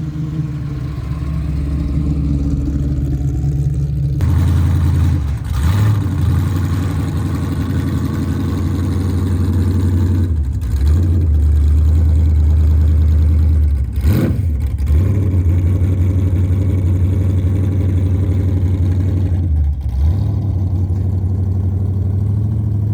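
Car engine running loud with a deep, steady note that steps up about four seconds in, then dips briefly and comes back four times.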